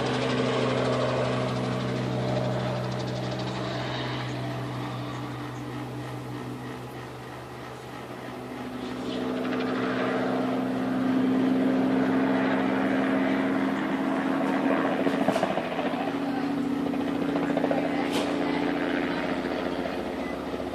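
Crop-spraying helicopter's engine and rotor running steadily. The sound fades as it flies off and grows louder again a few seconds later as it comes back.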